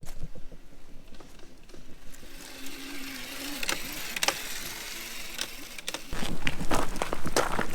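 Razor MX350 electric dirt bike running, with a faint motor whine that rises and falls about two and a half seconds in, amid scattered clicks and rattles. A low rumble comes in about six seconds in.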